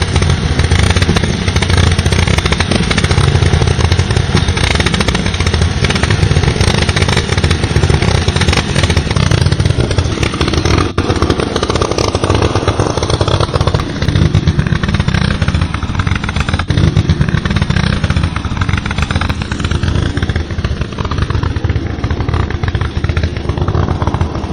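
A homemade miniature tractor's motor running steadily while driving a small flour mill, a loud continuous mechanical buzz with a rattle, easing a little about halfway through.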